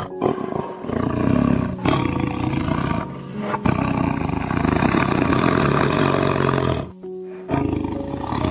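Tiger roaring in several long roars with short breaks between them, over background music.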